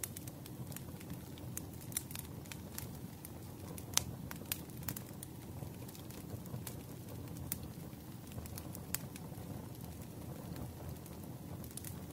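Wood fire crackling: irregular sharp pops and snaps over a low steady rumble of burning flames.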